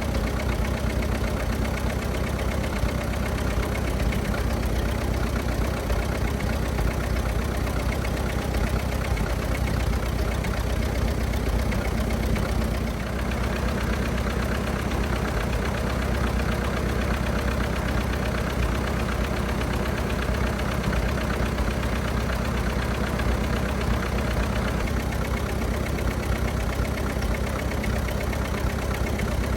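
1924 Fordson F tractor's four-cylinder engine running steadily, warming up toward operating temperature, with a brief dip in level about 13 seconds in.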